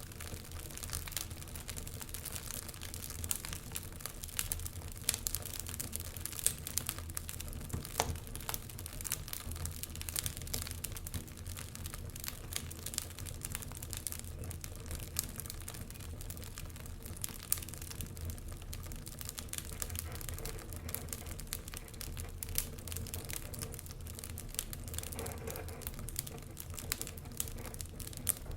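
Fire crackling, with a steady stream of small pops and snaps and a few sharper, louder pops, over a low steady rumble.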